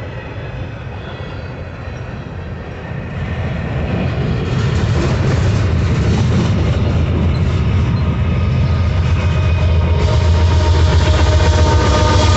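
A train approaching, growing louder over the first few seconds, with a steady low rumble. About ten seconds in, steady higher tones come in over the rumble.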